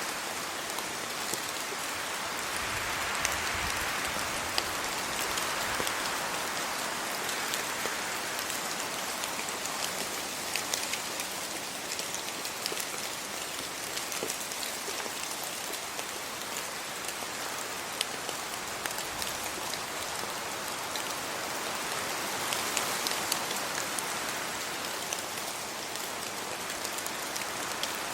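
Steady rain falling, a continuous hiss with many sharp drop ticks on top, swelling gently now and then.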